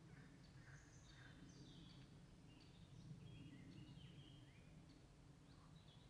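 Faint birdsong: several small birds giving short chirps and song phrases, over a low steady rumble.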